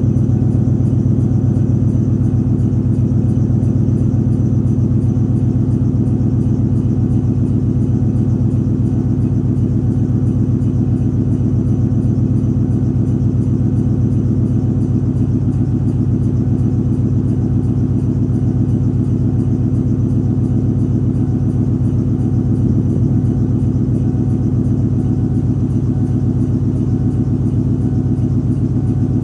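1996 Mustang Cobra's 4.6-litre DOHC V8 running steadily at idle through BBK long-tube headers, a Pypes H-pipe and a Pypes cat-back exhaust with M80 mufflers, a deep even exhaust note with no revving.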